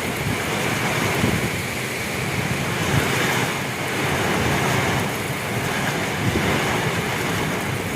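Heavy rain pouring steadily in a Kalbaisakhi (nor'wester) thunderstorm, with strong wind gusting over the microphone.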